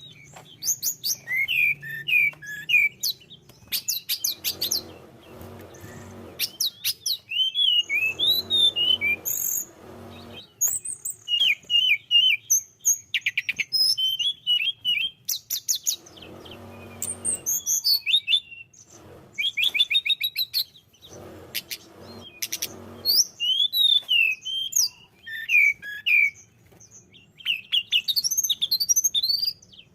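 Tledekan gunung songbird singing continuously: rapid, varied phrases of high whistles, trills and chirps with short gaps. Lower rustling noise comes in four times under the song.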